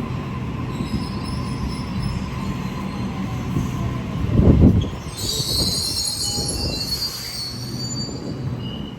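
Sydney Trains suburban electric train moving through the platform with a steady low rumble and a faint hum, swelling briefly about four and a half seconds in. From about five seconds in, its wheels squeal in high-pitched tones against the rails.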